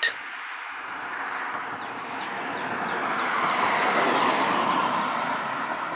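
A vehicle passing on the street: a hiss of tyres and engine that builds to its loudest about four seconds in, then fades away.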